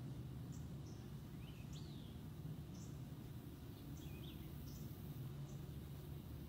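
Faint outdoor ambience: small birds chirping, short high chirps about once a second with a few rising calls, over a steady low hum.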